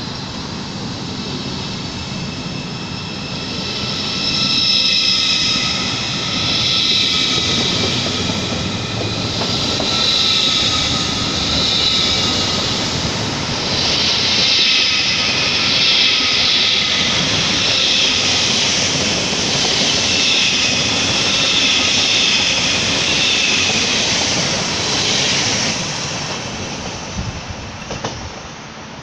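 A train running through the station: a steady rumble with a high whine on top. It grows louder about four seconds in and fades near the end.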